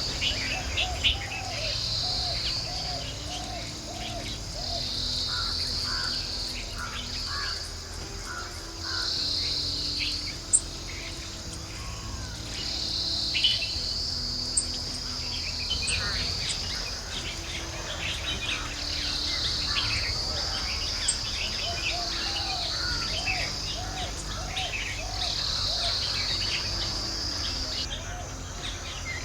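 Outdoor ambience of insects buzzing in high-pitched pulses a second or two long, with wild birds calling over it. Twice a bird gives a run of about eight short repeated notes, once near the start and again about two-thirds of the way in. Scattered chirps and a few sharp clicks come in between.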